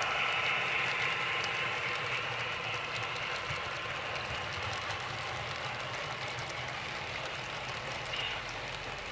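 Model diesel train running on the layout track: a steady rumble and hiss that slowly grows fainter.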